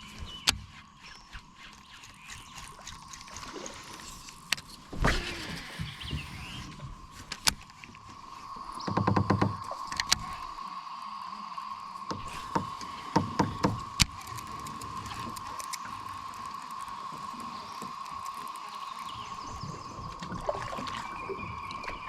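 Kayak on the water: sharp knocks and clicks of paddle and gear against the hull, with a steady high-pitched hum throughout and a louder low rumble about nine seconds in.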